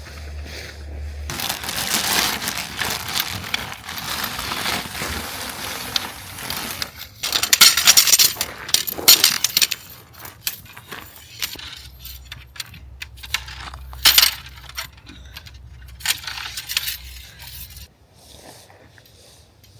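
Camping gear being handled: light metallic clinks and knocks over rustling, with a cluster of louder clatters several seconds in.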